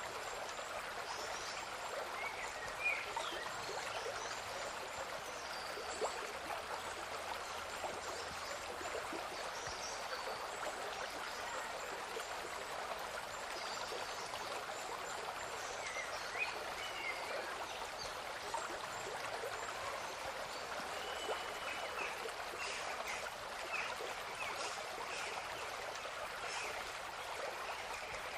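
A stream or small river running steadily, with short bird chirps and whistles scattered throughout and a few brief, louder sharp notes.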